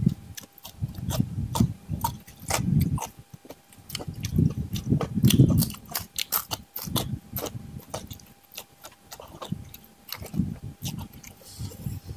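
A person eating and chewing close to the microphone, with frequent sharp wet mouth clicks and lip smacks over low, muffled chewing in bursts. The meal is fried catfish and rice with sambal.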